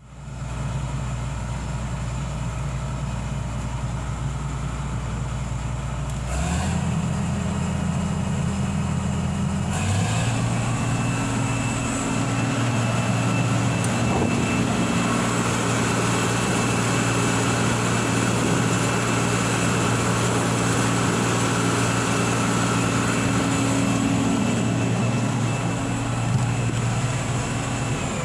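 John Deere 6081HH012 8.1-litre six-cylinder turbo diesel running steadily at idle. Its speed steps up about six seconds in, then again about ten seconds in, and it holds at the higher speed.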